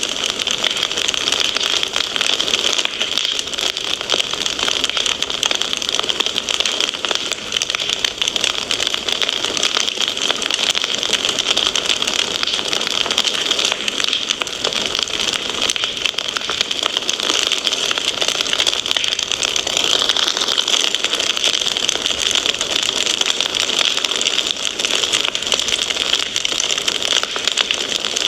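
Wood fire crackling steadily: a dense run of small pops and snaps over a constant hiss.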